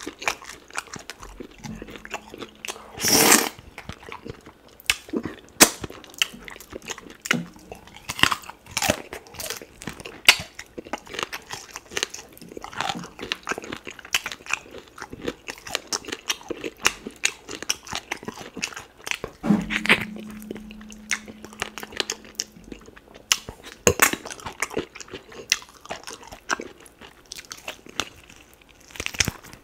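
Close-miked eating sounds of duck meat being chewed off the bone with slimy ogbono soup: chewing, crunching and wet mouth smacks, made of many small clicks and crackles. A louder burst comes about three seconds in.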